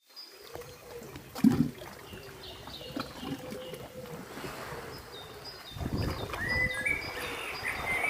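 Mediterranean sea water sloshing and washing, with a low rumble and wind on the microphone. Short, high chirping calls sound over it, and there is a single knock about a second and a half in.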